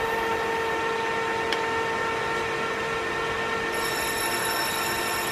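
Metal lathe running with a steady, even-pitched metallic whine, from the machine or from the tool cutting 1018 cold-rolled steel. Higher-pitched ringing joins about four seconds in.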